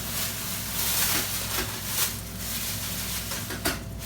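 Paper fast-food wrappers and bags crinkling and rustling as they are handled, with a sharp click near the end.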